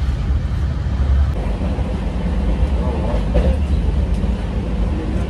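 Express train running at speed, heard from inside a three-tier AC economy sleeper coach: a steady low rumble of the wheels and running gear on the track.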